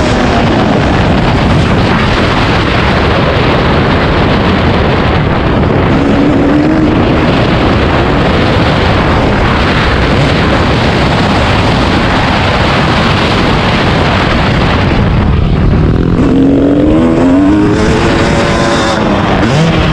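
Dirt bike engine running loudly on a motocross track, under a steady roar of noise, with the revs climbing briefly about six seconds in and twice more near the end.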